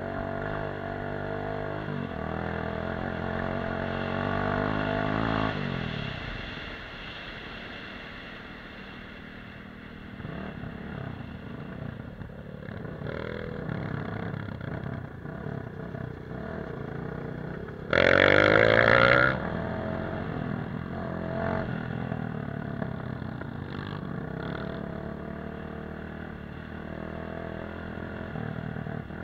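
Off-road motorcycle engine running, revs climbing over the first few seconds then dropping back and running lower. About two-thirds of the way through, a loud sound cuts in for just over a second.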